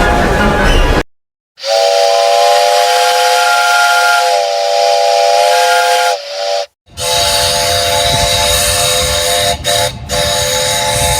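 A different horn chord cuts off abruptly about a second in. Then a steam locomotive chime whistle sounds a steady multi-note chord in a long blast of about five seconds. After a brief break comes a second long blast, with the train's rumble and steam hiss under it.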